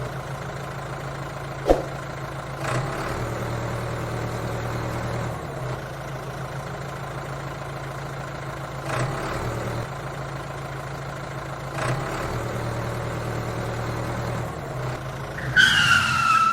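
Tractor engine running steadily at a low drone, with a few brief knocks along the way. About a second before the end, a short horn-like tone sounds, falling slightly in pitch.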